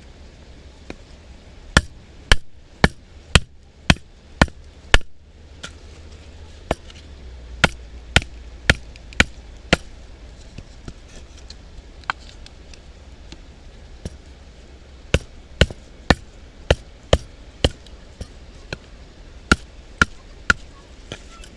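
Batoning firewood: a baton repeatedly strikes the spine of a Mora knife set in a log, giving sharp knocks in runs of several at about two a second with short pauses between. The blade is hardly going into the wood.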